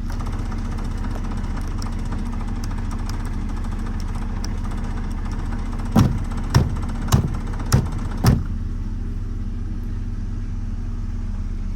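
Car engine, the Proton Waja's 4G18 four-cylinder, idling with a steady low hum. Five sharp knocks come in quick succession about halfway through.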